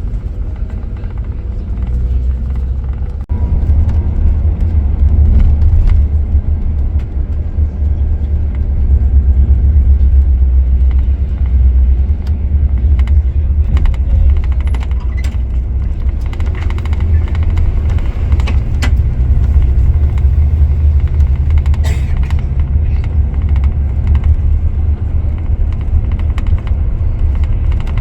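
Scania K410IB coach on the road: a loud, steady low rumble of engine and road noise that grows louder about three seconds in, with a few faint clicks.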